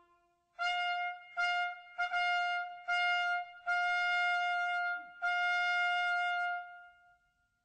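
Trumpet fanfare: six notes on one pitch, the last one held for about a second and a half.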